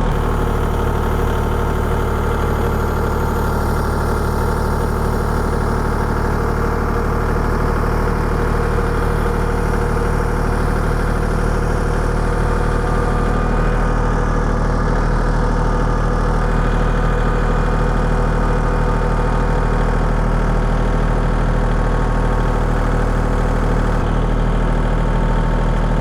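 Engine idling steadily at an even speed, with no revving or change throughout.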